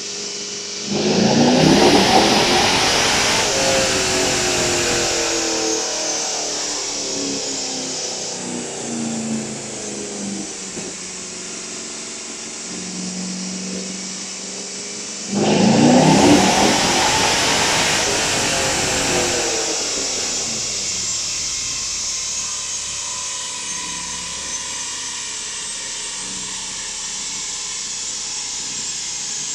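A Chevrolet Corvette C5's V8 revved hard on a chassis dyno, twice: each time the engine note jumps up suddenly and loudly, then winds down slowly over several seconds as the revs fall.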